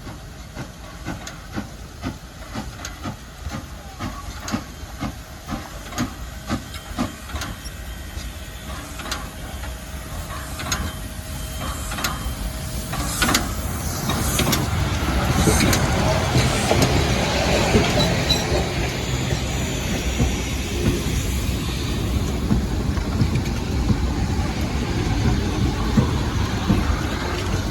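P36 steam locomotive pulling out of a station, its exhaust beating in regular chuffs. About halfway through, a loud, steady steam hiss swells up and carries on, along with train running noise.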